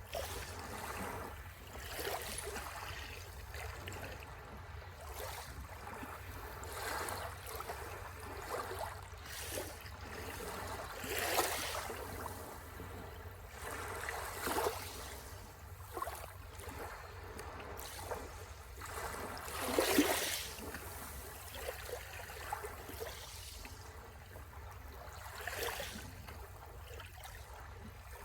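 Sea waves washing in on the shore in irregular surges, the biggest about eleven and twenty seconds in.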